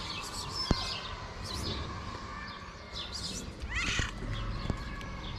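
Small birds chirping and twittering repeatedly, with a brighter rising call about four seconds in and a few sharp taps.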